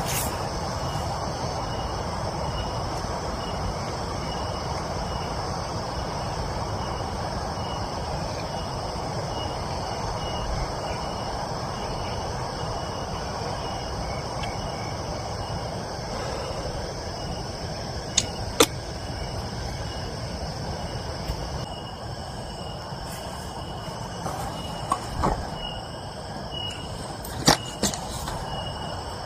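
Steady rain falling, with insects chirping in a fast, even pulse above it. A couple of sharp clicks stand out, one a little past halfway and another near the end.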